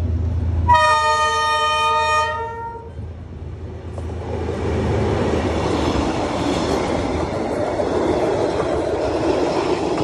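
D19E diesel-electric locomotive sounding its horn once for about a second and a half, then the locomotive and its passenger coaches passing close by with a steady rumble of wheels on the rails.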